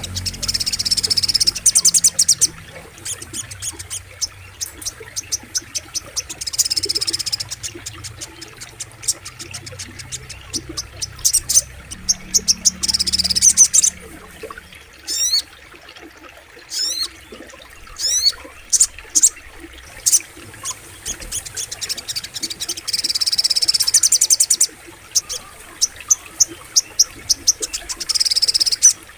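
Little spiderhunter (sogok ontong) calling in repeated bursts of rapid, sharp high chips and trills, with a few quick sweeping notes midway, over a faint low rumble in the first half.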